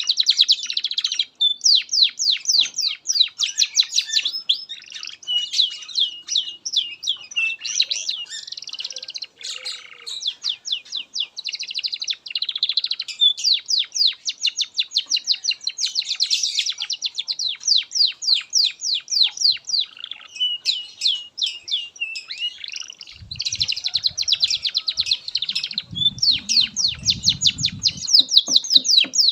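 Domestic canary singing a long unbroken song of rapid trills and rolls, its phrases changing every second or two. A low rumble runs underneath for a few seconds near the end.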